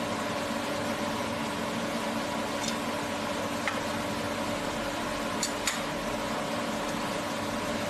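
SH30-2 woodworking spindle moulder running steadily: a constant machine hum and whir with several steady tones, and a few short sharp ticks, two of them close together.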